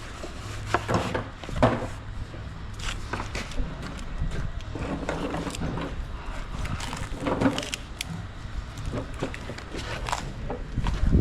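Heavy roll of sheet flooring being handled onto trolleys: scattered knocks, bumps and rubbing, with a louder thump near the end.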